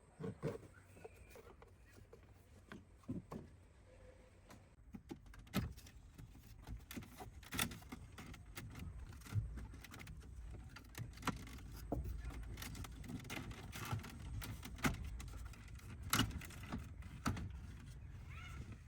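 Irregular sharp clicks and knocks, some metallic, over a steady low rumble, coming more often after about five seconds in.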